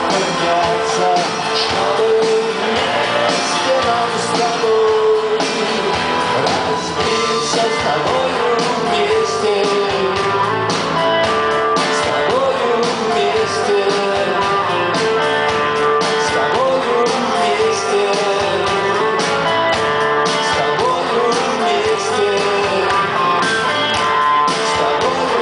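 Rock band playing live, recorded from the audience. Guitars carry a wavering melody line over a steady, loud accompaniment.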